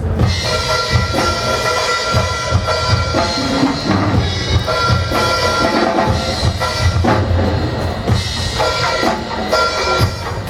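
Percussion ensemble playing live: drum kit and bass drum strikes under sustained ringing tones.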